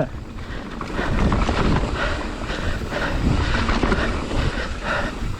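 Mountain bike rolling fast down a rough, rocky technical trail: tyres rumbling and the bike rattling over rocks under wind buffeting the microphone.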